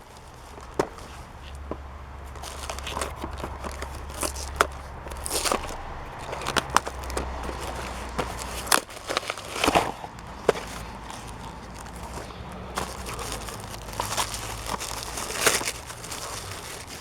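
Packing material being unwrapped and handled by hand: rustling and crinkling broken by frequent sharp crackles and snaps as a well-protected parcel is opened.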